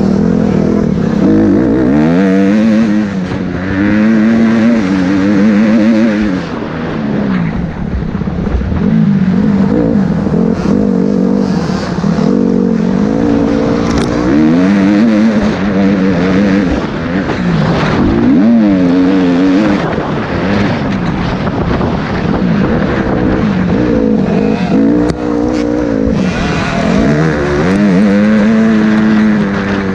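Motocross bike engine revving hard, its pitch climbing and dropping over and over as the throttle opens and closes and the gears change.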